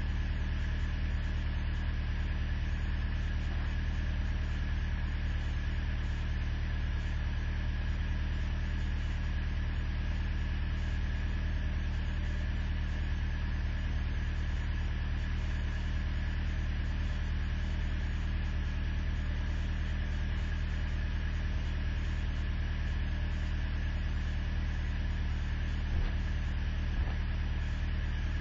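Truck engine idling steadily, running cold at six below zero. A couple of faint clicks near the end.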